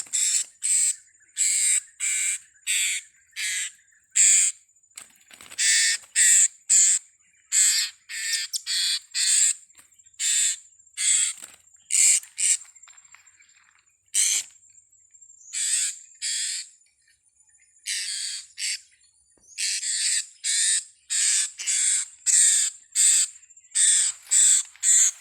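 Blue-crowned hanging parrots (serindit) calling: short, shrill, harsh squawks repeated in quick irregular runs, with a thin steady high tone behind them.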